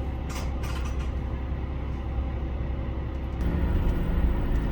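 HOT7000-series diesel railcar running, its diesel engine humming under a steady rumble, with a couple of short ticks early on. About three and a half seconds in, the engine note steps up and grows louder.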